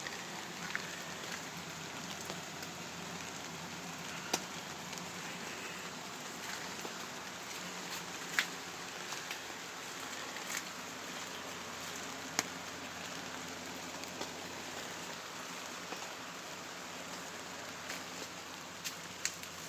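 Steady rain falling, with a few louder drops ticking sharply and irregularly close by.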